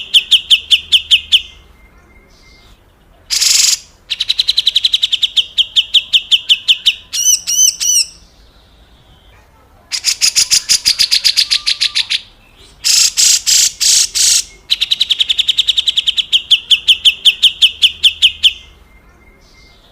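Grey-cheeked bulbul (cucak jenggot) giving harsh rattling 'besetan kasar' calls: long trains of rapid repeated notes, broken by short rough bursts (one about three seconds in, a cluster of four near the middle) and a brief run of whistled notes about seven seconds in, with short pauses between phrases.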